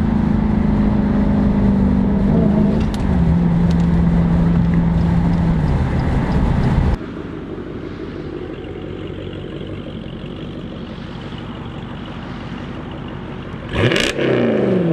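Jeep Grand Cherokee SRT's 6.4-litre V8 through a Corsa Xtreme cat-back exhaust, running loud and steady, its pitch stepping down twice. It cuts off suddenly about seven seconds in to a much quieter steady engine hum. Near the end a quick rev rises and falls.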